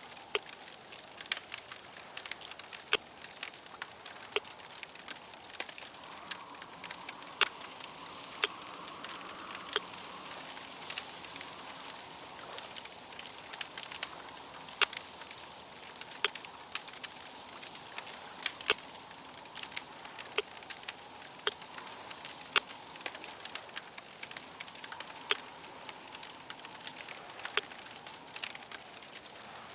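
Wood fire crackling, with frequent irregular sharp pops over a low steady hiss.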